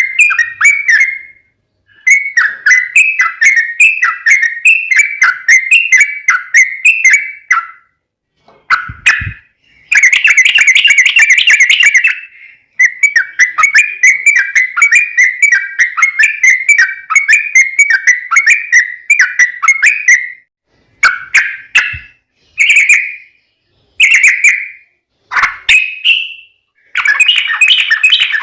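Yellow-vented bulbul (trucukan) singing a long, fast 'ropel' song. It gives dense runs of quick, bubbling chattering notes in phrases several seconds long, separated by short pauses. A brief low thump comes about nine seconds in.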